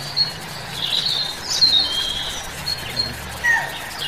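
Several forest birds chirping and whistling in short, high-pitched calls, over a faint low steady hum.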